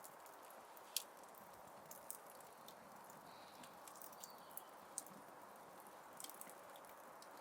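Fire in a fireplace crackling: a soft steady hiss with irregular sharp pops and snaps, the loudest about a second in.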